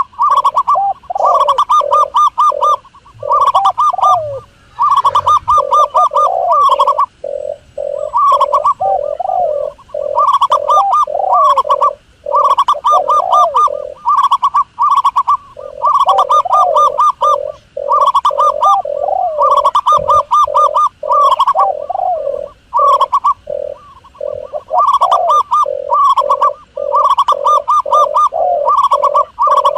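Doves cooing in fast, pulsed runs of notes that repeat in bouts about a second or two long with short breaks, two or more calls overlapping.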